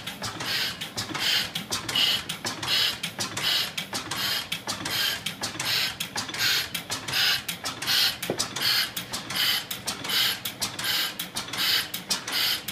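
1897 Hamilton engine running steadily: a rhythmic mechanical clatter with a hissing beat about twice a second and fast clicking in between.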